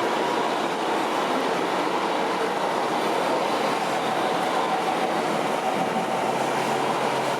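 Steady mechanical running of radio-controlled scale model trucks: a continuous whirring rumble with a faint constant hum.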